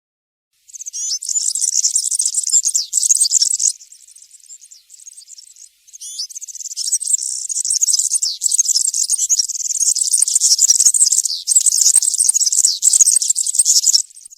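European serin singing its fast, high-pitched, jingling song: a loud phrase of about three seconds, a quieter stretch, then a long phrase of about eight seconds with one brief break, fading near the end.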